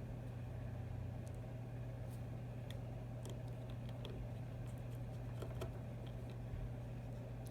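Scattered faint light clicks and taps of small tools and parts being handled on a disassembled iPhone 6, over a steady low hum.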